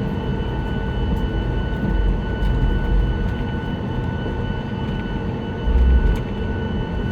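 Cabin noise of a Boeing 737-9 MAX rolling on the ground after landing: a steady rumble with the even whine of its CFM LEAP-1B engines at idle. Two deeper bumps come through, about two seconds in and near the end.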